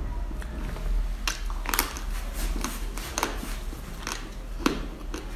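Close-miked chewing of candy: soft wet mouth sounds with scattered short clicks and crackles, over a steady low hum.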